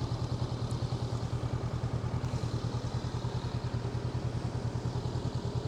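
Honda NX500 parallel-twin motorcycle engine idling steadily, with an even pulsing beat and no change in revs.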